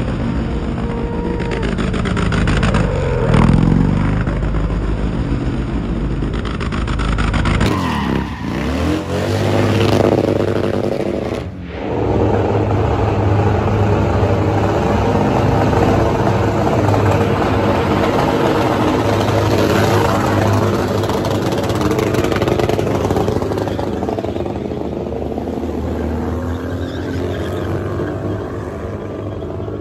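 Motorcycle engines revving, the pitch rising and falling repeatedly, then running more steadily after abrupt changes in the sound about 8 and 12 seconds in.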